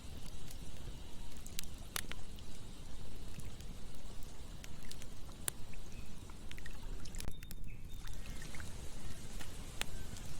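Campfire crackling with sharp, irregular pops over the steady rush of flowing river water. A few faint short chirps come in the second half.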